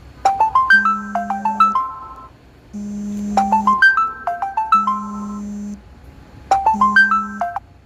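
A phone ringtone playing a bright, plucked-sounding melody of quick rising notes. The short phrase repeats three times, with a held low tone under each.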